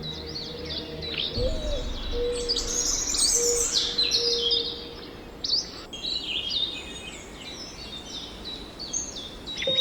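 Several small birds chirping and singing at once: quick, overlapping calls, busiest a few seconds in. A lower note repeats a few times underneath.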